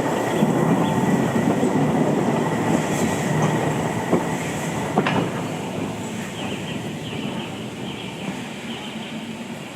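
A train rolling past on the track, its wheels clicking over rail joints, the sound fading away as it recedes.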